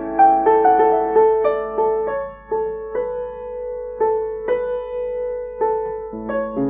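Background piano music: a slow, gentle melody of single notes, with fuller chords coming back near the end.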